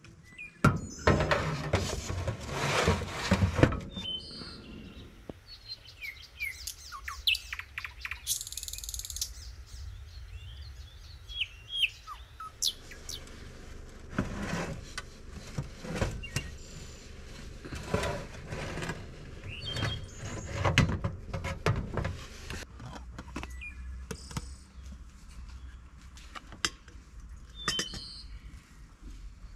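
Small birds chirping in short calls, among repeated knocks and scrapes that are loudest during the first few seconds and come back in bursts later on.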